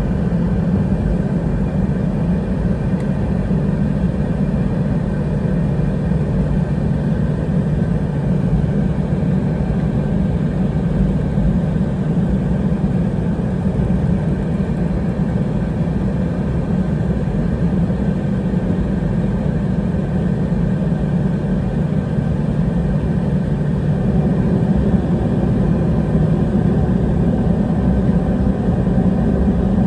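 Steady low rumble of an Airbus A320-212's CFM56 jet engines and airframe, heard inside the passenger cabin, growing slightly louder near the end.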